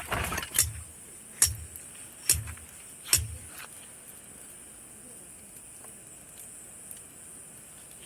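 Steady high-pitched chirring of night insects, with a handful of sharp knocks and clinks in the first half that then stop.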